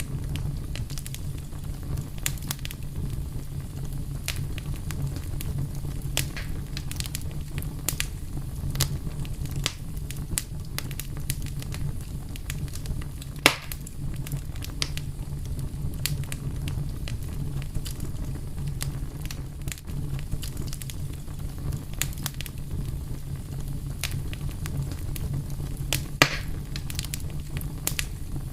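Fire crackling with a steady scatter of small pops over a low, even rumble, and two louder pops, one about halfway through and one near the end.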